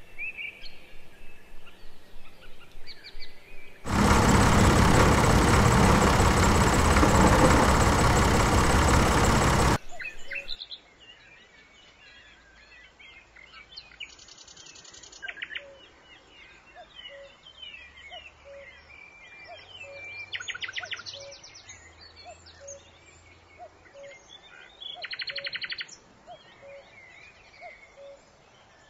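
Small birds chirping and calling, with a soft note repeated about once a second and a few short buzzy trills. About four seconds in, a loud steady rushing noise cuts in for about six seconds and stops abruptly.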